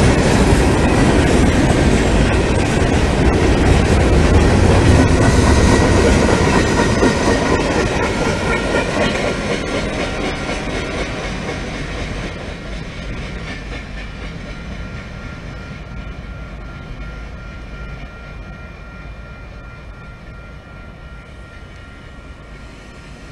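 Freight train cars rolling past, wheels clattering over the rail joints, the sound fading steadily as the tail end moves away. A thin, steady high tone lingers above the fading rumble in the later part.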